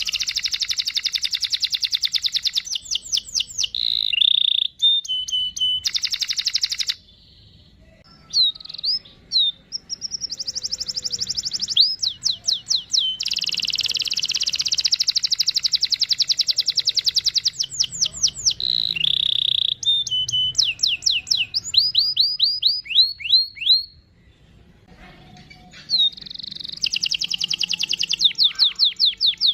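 Domestic canary singing long, fast trilled rolls with chirping notes, stopping briefly about a quarter of the way in and again near the end.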